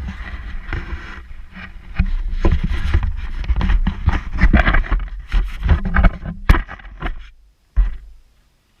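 Handling noise: irregular knocks, clicks and scrapes over a low rumble, as tools, parts or the camera are picked up and moved. It breaks off briefly near the end.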